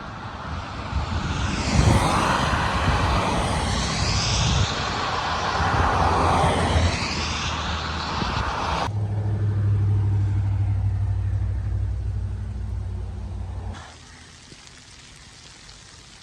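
Road vehicles passing, a rushing noise that swells and fades twice with sweeping changes in tone. After a sudden cut a steady low hum runs on, then drops away abruptly near the end.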